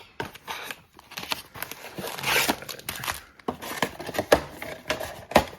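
Trading card packaging being torn open and crinkled: plastic wrapping ripping and rustling, with scattered sharp clicks and taps.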